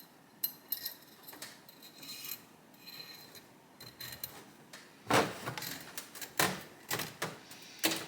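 Small clicks, ticks and rustles of motorcycle wiring being handled as a handlebar switch wire is fed down into place. From about five seconds in come several louder knocks and scrapes of parts being worked.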